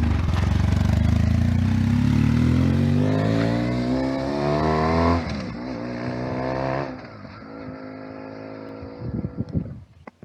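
Ural sidecar motorcycle's flat-twin engine pulling away and accelerating, its pitch climbing for about five seconds. The pitch drops with a gear change, climbs again, then settles lower and quieter as the bike cruises, fading near the end.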